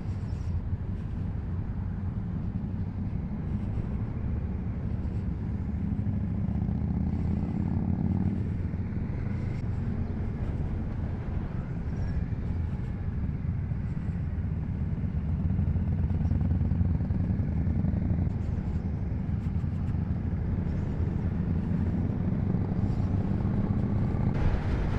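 Motorcycle engine and road noise while riding, picked up by the bike's camera, steady, with the engine note rising and falling a little in the middle.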